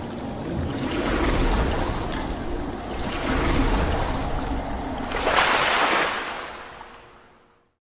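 A rushing, surf-like noise that swells three times, then fades out near the end.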